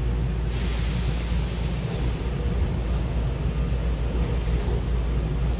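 Hankyu commuter train heard from inside the car as it starts to move off from a station, with a steady low rumble. A loud hiss starts abruptly about half a second in and lasts a couple of seconds.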